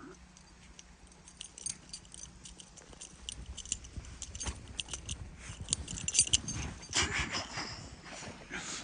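A dog running through snow: a scatter of light crunches and clicks, getting busier about seven seconds in.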